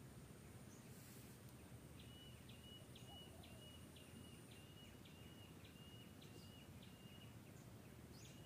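Near silence: faint outdoor ambience, with a distant bird repeating a short high note about twice a second, starting about two seconds in and stopping near the end.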